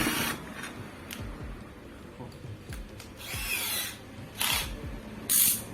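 Screwdriver grinding and scraping against a very tight screw in a ceiling fan's housing, in a few short bursts with light knocks between. The screw is seized too tight to turn.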